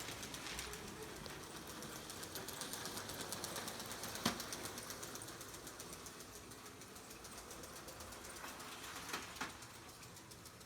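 Lego Emerald Night model train running on Lego 12V track: a fast, even clicking of wheels over the rails with a small motor's whir, growing louder as it comes near and fading as it moves away. A sharp click about four seconds in and two more near the end.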